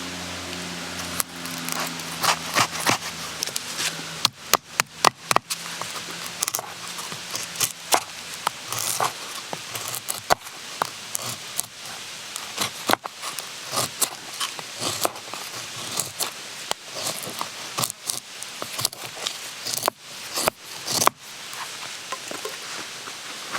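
Irregular sharp clicks, taps and short scrapes of hand work with camp gear, with a quick run of strikes about four seconds in and another cluster near the end, over a light hiss.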